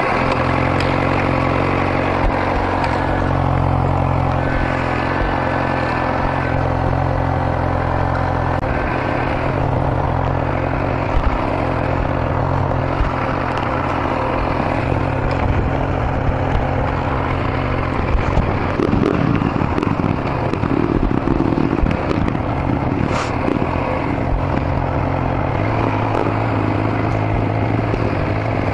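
Motorcycle engine running at a steady speed. About two-thirds of the way through the sound turns rougher and uneven for a few seconds, then settles back to a steady note.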